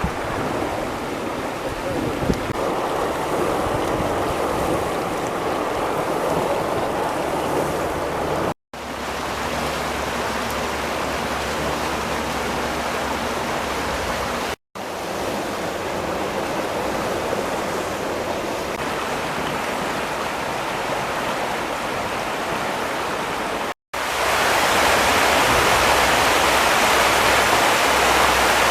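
Floodwater rushing down a flowing wadi, a steady sound of running water. It comes as four short clips cut one after another, and the last, from about five seconds before the end, is louder and brighter.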